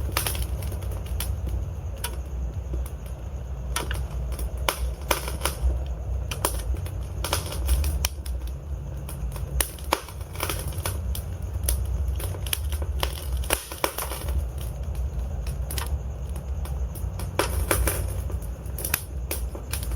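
Wood fire burning in a fireplace: logs crackling with frequent, irregular sharp pops over a steady low rumble.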